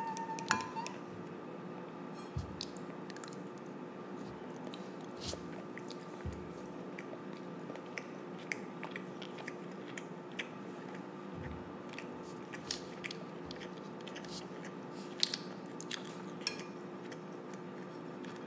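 A child chewing food close to the microphone, with scattered small clicks of training chopsticks against a ceramic bowl. A steady low hum runs underneath.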